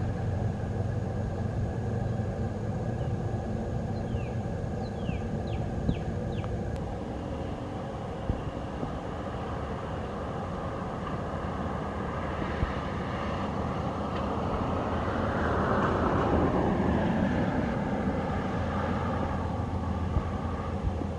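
Outdoor ambience: a steady low hum with a vehicle passing, swelling and fading about fifteen seconds in. A few short high chirps come about four to six seconds in.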